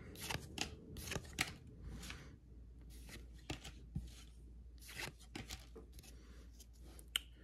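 A stack of Donruss basketball trading cards being thumbed through by hand, one card at a time: soft, irregular flicks and slides of card stock against card stock, quiet.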